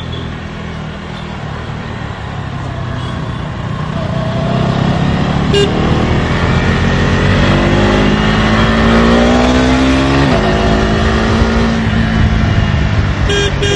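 KTM Duke 250's single-cylinder engine through its stock exhaust, pulling under acceleration with the note rising steadily, then dropping sharply at an upshift about ten seconds in and pulling on. A short horn beep sounds about halfway through, and horns start just at the end.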